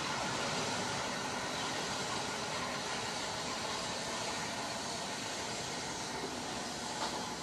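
Electric multiple unit train pulling away along the track: a steady rumble and hiss of wheels and motors, slowly fading as it recedes.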